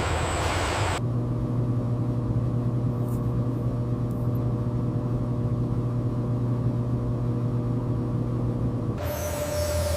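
Steady low machine hum with several fixed tones. It follows about a second of hissing and changes about nine seconds in to a different hum with a higher steady tone.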